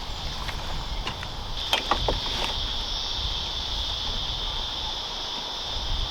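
A steady, high drone of cicadas in summer heat, growing louder just after a second in. A few light knocks and clicks come around two seconds in.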